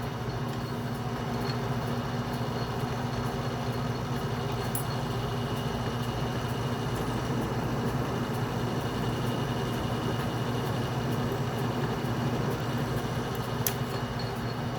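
Atlas metal lathe running steadily under power feed during a threading pass, its motor and gear train giving an even hum with a faint higher whine. A single sharp click near the end.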